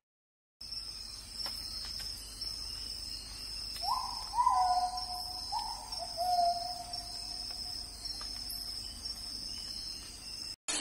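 Steady high-pitched insect chirring, with a short run of four or five hooting calls from a bird about four seconds in, each call sliding up and then holding, the last ones dropping a little in pitch.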